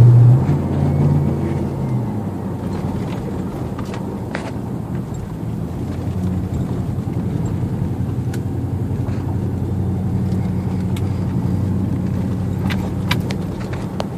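Turbocharged 2009 Jeep Grand Cherokee SRT8's 6.1-litre Hemi V8 and road noise heard from inside the cabin with the windows up while driving: a low steady drone, a little stronger in the first couple of seconds, then settling. Pretty quiet.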